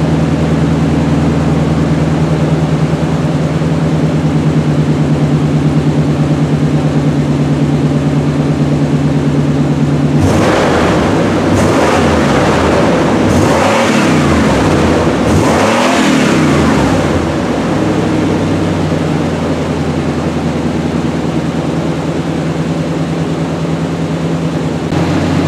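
Exhaust of a 1989 truck on a cold start, through a Jones Max Flow muffler with single-in, dual-out pipes. The engine idles steadily, is revved up and back down a few times from about ten seconds in, then settles to a slightly quieter idle.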